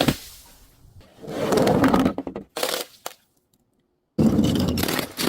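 Objects being smashed and crushed in a series of edited clips: a sharp crack that then dies away, two longer crunching crashes, and a few short knocks. There is a dead-silent cut between the last two crashes.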